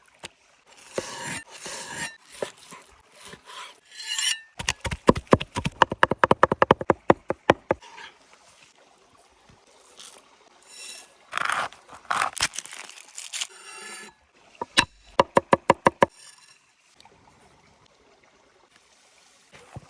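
Food-preparation sounds: scraping and rubbing, and two quick runs of even knife chops on a cutting board, about eight a second, one about five seconds in and a shorter one near the three-quarter mark.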